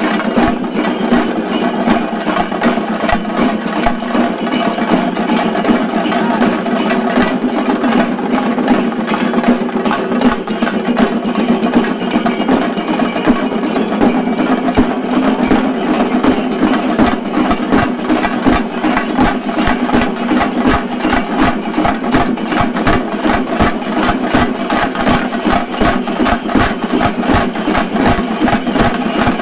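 Kerala chenda drums played together in a fast, continuous shinkari melam rhythm, a dense roll of rapid stick strokes.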